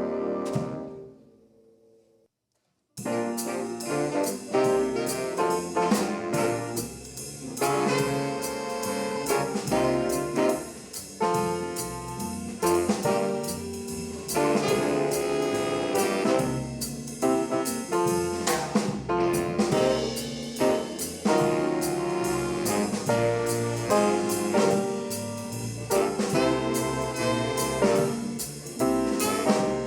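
A high school swing band, a jazz big band with saxophones, trumpets, trombones, piano and drums, playing an up-tempo number. It comes in suddenly about three seconds in, after the previous music dies away into a brief silence.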